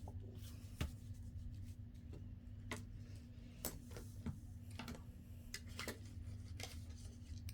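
Light, scattered taps and clicks of paper pieces and craft tools being handled on a work table, over a steady low hum.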